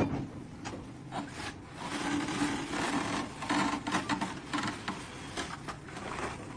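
Irregular scraping and rubbing strokes, as of a hand tool worked against a surface.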